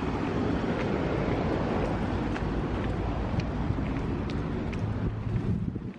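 Steady outdoor rumbling noise, strongest in the low end, with a few faint ticks; it cuts off suddenly just before the end.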